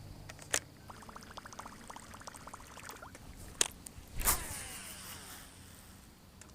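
Fishing gear being worked in a small boat: a fishing reel clicking rapidly and evenly for about two seconds, then a few sharp knocks, the loudest a little after the middle and followed by a whir that falls in pitch.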